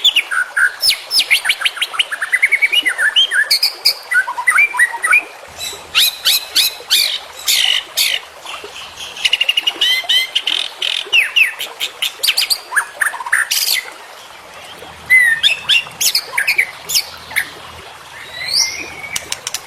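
White-rumped shama (murai batu) singing a fast, varied song of loud whistles, rising and falling sweeps, sharp ticks and trills, with a brief lull about two-thirds of the way through.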